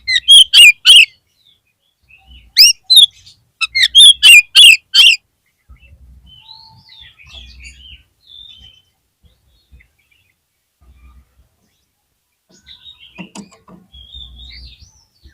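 Oriental magpie-robin (kacer) calling: loud runs of short, sharp notes, four in quick succession at the start, two about two and a half seconds in, and five more around four seconds. Quieter twittering warbles follow, with a soft phrase near the end.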